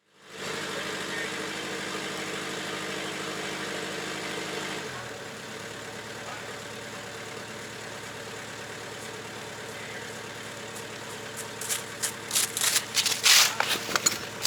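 Bobcat 773 skid steer's diesel engine running steadily, its note dropping about five seconds in as the throttle comes down, then running on lower. Irregular clattering and knocks join in near the end.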